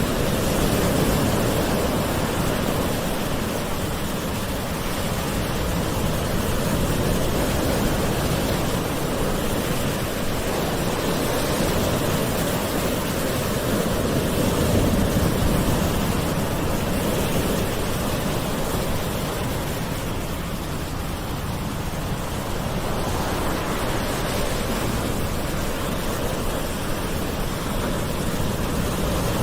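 Gentle ocean waves washing onto shore, a steady wash of surf that swells and eases slowly every few seconds.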